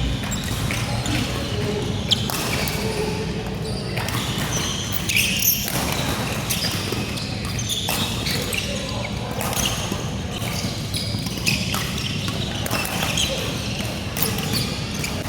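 Badminton play on an indoor court: irregular sharp hits of rackets on the shuttlecock and players' footfalls, over the steady hum and chatter of a hall.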